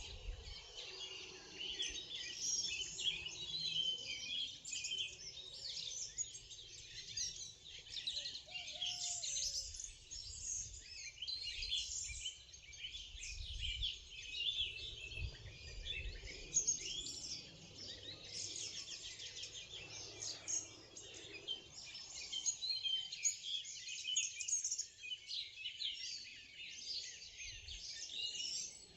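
Morning chorus of many songbirds singing and chirping at once, overlapping high trills and chirps without a break.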